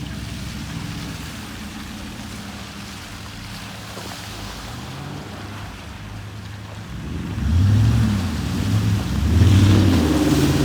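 Truck engine running with a low steady drone. About seven seconds in it grows louder and its pitch swells up and down a few times.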